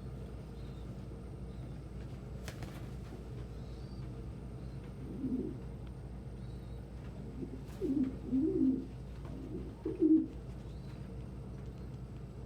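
Domestic pigeon cooing, typical of a cock courting a hen: a low coo about five seconds in, then a run of coos from about eight to ten seconds in, over a steady low hum.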